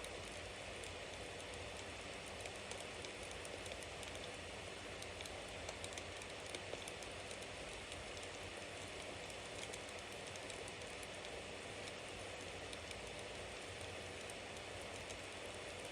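Bonfire burning: a steady hiss with a constant patter of small crackles and pops from the burning wood.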